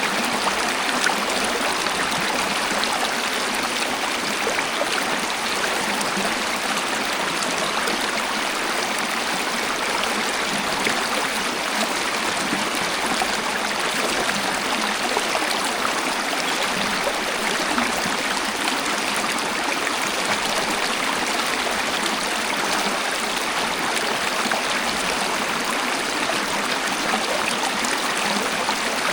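Waterfall and flowing stream water rushing steadily, an even splashing hiss with no breaks or changes.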